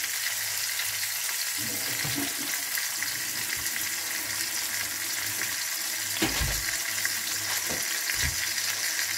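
Chicken pieces sizzling steadily in hot oil in a stainless steel pan as they are browned, with two dull knocks about six and eight seconds in.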